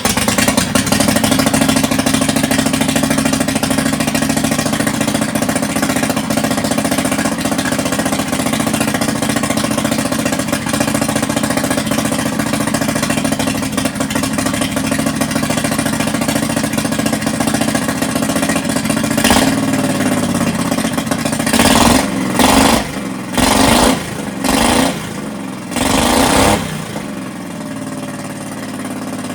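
Predator 670 V-twin engine, built with the governor deleted and a 34 mm flat-slide carburetor, running steadily at a fast idle. Near the end it is blipped up in revs once, then four or five more times in quick succession, before settling back to idle. The owner thinks it sounds a little rich.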